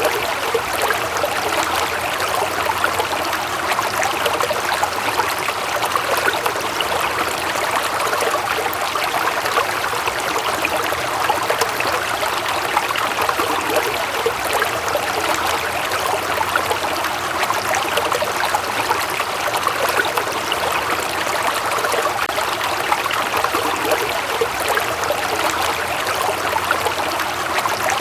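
Running water flowing steadily with a constant splashing rush.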